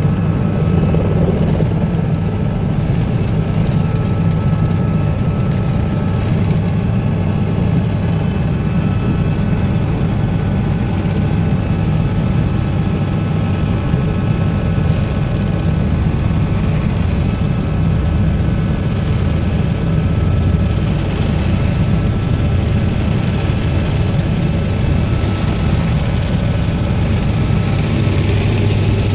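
Helicopter engine and rotors running steadily in flight, heard from inside the cabin.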